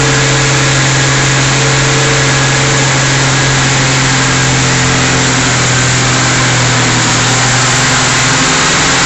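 1964 XM Ford Falcon's straight-six engine running steadily just after its first start as a freshly reconditioned engine. The note shifts slightly about eight seconds in.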